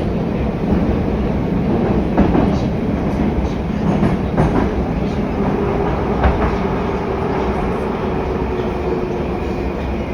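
Moscow Metro 81-775/776/777 train car running through the tunnel, heard from inside the car. There is a steady rumble of wheels on rail with an occasional knock at rail joints, and a steady whine comes in about halfway through.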